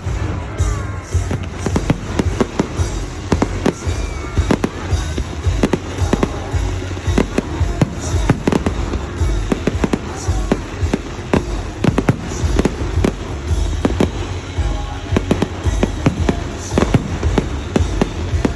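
Fireworks display going off continuously: rapid, irregular bangs and crackles, several a second, over a low rumble.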